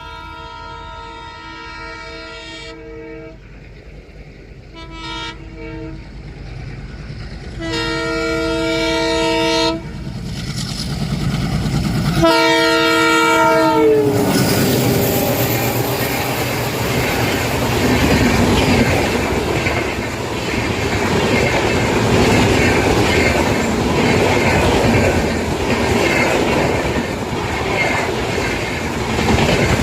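Twin WDG-3A diesel locomotives sounding a multi-note air horn four times as they approach, the last blast sliding down in pitch as they pass. After that comes a loud, continuous rumble and clickety-clack of the coaches rolling by.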